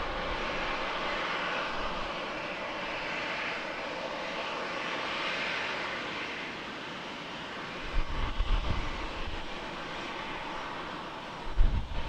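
Jet airliner engines heard from the ground as a steady, rushing noise that swells and eases, with two short bursts of low rumble, one about two-thirds of the way in and one near the end.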